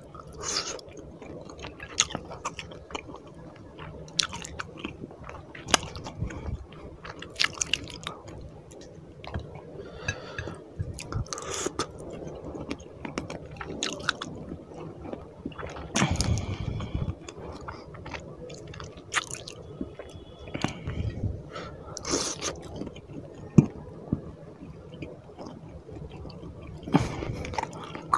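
Close-miked chewing of a mouthful of fish curry and rice eaten by hand, with many short sharp clicks scattered throughout.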